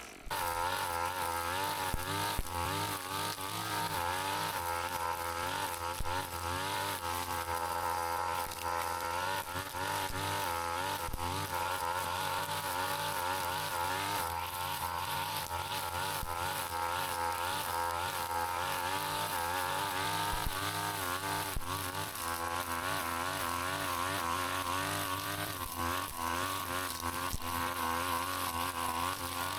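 Two-stroke brush cutter engine running continuously, its pitch wavering up and down as the throttle and cutting load change.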